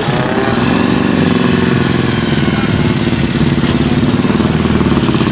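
A car engine running loudly close by: its pitch climbs over about the first second, then it holds a steady, raised note.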